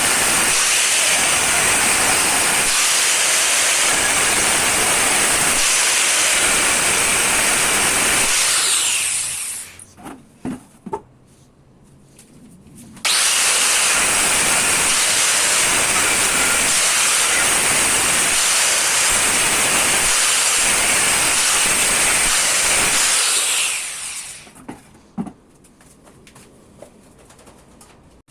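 A high-speed power tool motor running with a high whine, then winding down with a falling pitch about nine seconds in. A few light knocks follow, then the tool starts again abruptly, runs for about ten seconds and winds down near the end.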